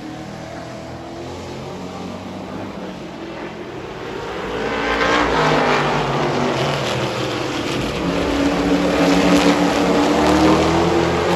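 Super truck race trucks' engines running at race speed, growing louder from about four seconds in as the trucks come close, their pitch rising and falling as they pass.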